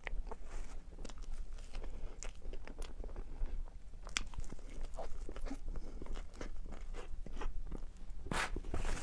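Close-miked eating: a person chewing and biting, a string of irregular short crunchy, smacking mouth sounds, with a louder bite about eight seconds in.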